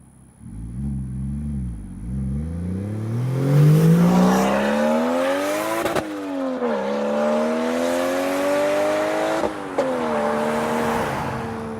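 Single-turbo BMW 335i's N54 inline-six accelerating hard: the revs climb steadily, drop sharply at an upshift about six seconds in, climb again, and drop at a second upshift near the end.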